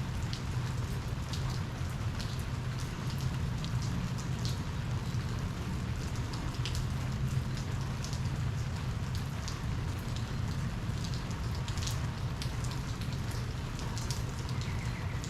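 Steady heavy rain during a thunderstorm, with many individual drops ticking close by at irregular moments.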